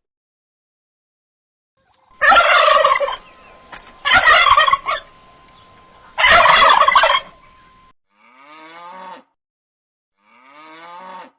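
Turkey gobbling: three loud, rattling gobbles about two seconds apart, followed near the end by two quieter, shorter calls that drop in pitch.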